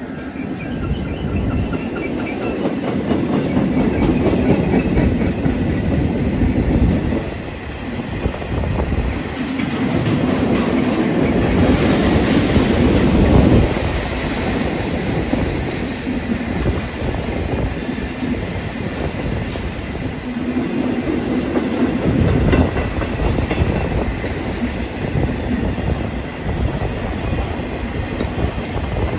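A train rolling past, its wheels clattering over the rail joints, the sound swelling and easing as the cars go by.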